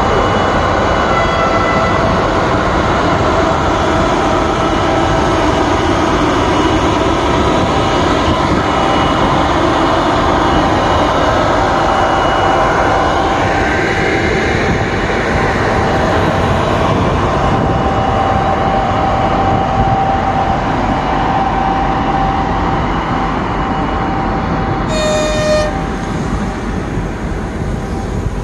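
Train running along the track with a loud steady rumble, thin high-pitched squeals riding over it. A single short horn toot sounds about 25 seconds in.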